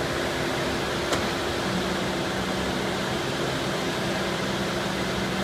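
Steady drone of the Mercedes-Benz Actros 4150 V8 truck running to drive its Cifa K52L truck-mounted concrete pump, with an even hum and a single sharp click about a second in.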